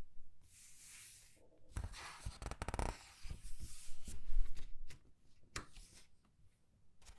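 Comic book pages being turned and squeezed: paper rustling and crinkling in several bursts, the loudest about four seconds in, with a sharp paper click near the end.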